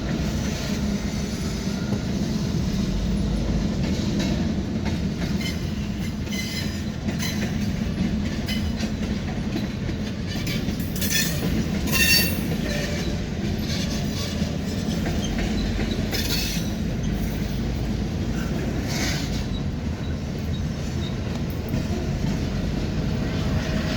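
A train's cars rolling past on the rails with a steady low rumble. A few brief high metallic wheel squeals come through around the middle.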